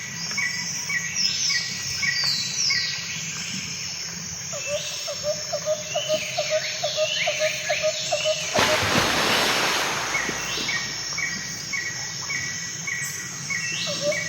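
Birds chirping and calling: trains of short repeated notes and quick sweeping calls, with a lower repeated call joining about a third of the way through. About halfway through, a loud rushing noise covers them for several seconds.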